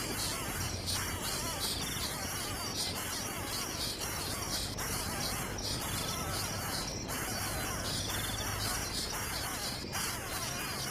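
High chirping calls of a bird mixed with insects, over a steady hiss, in a recording with short drop-outs every few seconds.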